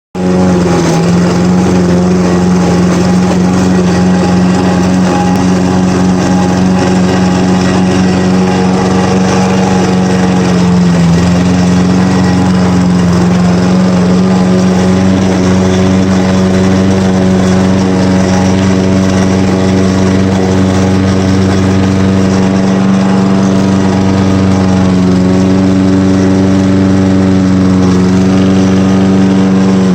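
Poulan Pro lawn mower engine running loudly at a steady speed, with the grinding noise that the owner is showing.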